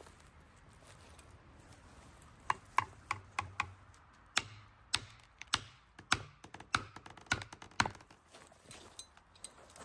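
Blade chopping at wood: a quick, irregular series of sharp knocks, two or three a second, starting about two and a half seconds in.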